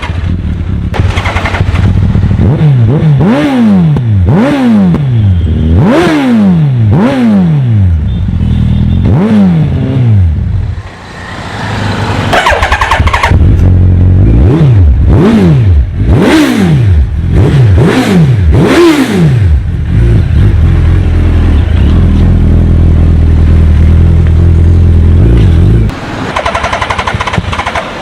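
2019 Suzuki Hayabusa's inline-four engine, breathing through an Akrapovic exhaust, revved in quick throttle blips, each rising and falling back, in two bursts of about five. It then holds a steady raised idle before settling lower near the end.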